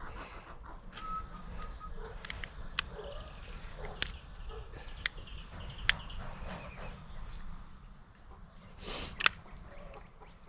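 Scattered light clicks and taps of hands and tools working a split-ring seal into the front gland of a log splitter's hydraulic cylinder, with a louder short scrape about nine seconds in.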